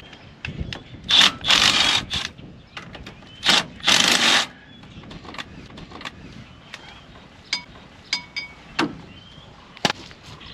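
Two short bursts of loud hissing, each about a second long, with scattered sharp clicks and knocks of metal parts and tools between them.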